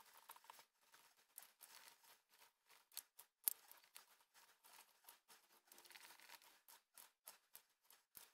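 Faint, scattered scrapes and clicks of a stick stirring two-part silicone mould rubber and its hardener in a plastic cup, with two slightly louder clicks about three seconds in.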